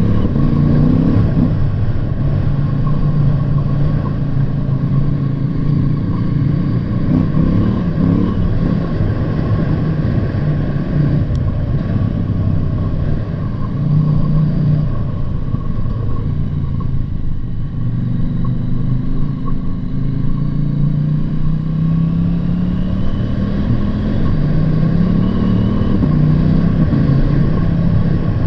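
Motorcycle engine running under way, its note climbing and falling several times as it accelerates and eases off, over a steady rushing noise of wind and road.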